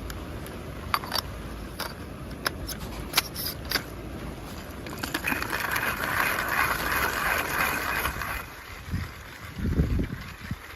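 Steady low rumble of wind and rain, with scattered sharp clicks in the first few seconds, a hiss from about five to eight seconds in, and a few dull thumps near the end.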